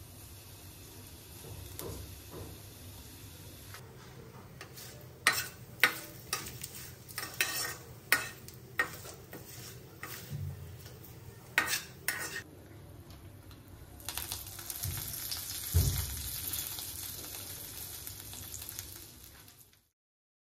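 Dried salt fish and curry leaves sizzling in hot oil in an iron kadai, with a flat steel spatula clinking and scraping against the pan as it is stirred, from about 4 seconds in to about halfway. The sizzle swells near the end, then cuts off suddenly to silence.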